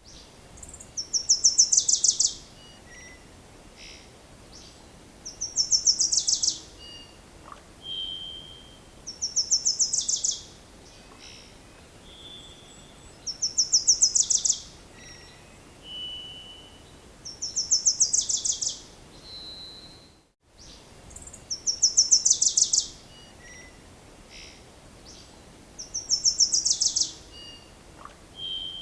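A bird singing the same song phrase about every four seconds: a fast, high trill of many rapid notes lasting about a second. Short single whistled notes come in between. The sound cuts out briefly about two-thirds of the way through.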